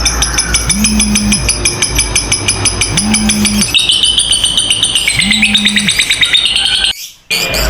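Lovebirds chattering in a long, rapid, high-pitched trill, the 'ngekek panjang' song used to train other lovebirds. A low hum runs underneath, with a short low tone repeating about every two seconds. The sound cuts out briefly about seven seconds in.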